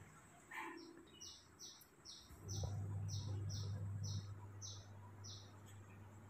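A bird chirping: a series of about ten short, high chirps, roughly two a second. A low rumble comes in about halfway through and lasts under two seconds.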